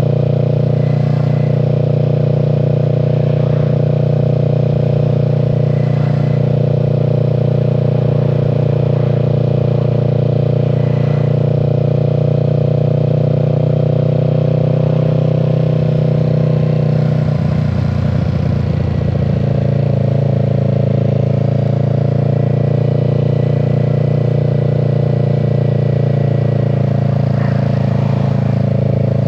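Kawasaki Z650's parallel-twin engine running steadily while riding at a constant speed, its note changing briefly about two-thirds of the way through before settling again.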